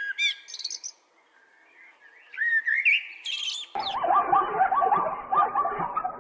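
A small bird chirping in quick rising and falling notes, in two short bouts with a brief pause between them. About two-thirds of the way through, the sound switches abruptly to a different, lower-pitched animal calling over and over against background noise.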